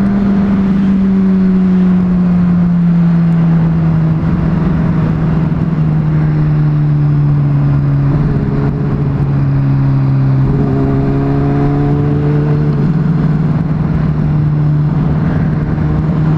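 Honda CBR600RR's inline-four engine running steadily while riding, with wind noise. The engine note sinks slowly over about the first ten seconds, then edges back up a little.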